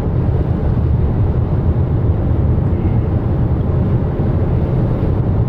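Car driving along a road: a steady low rumble of engine and road noise inside the cabin.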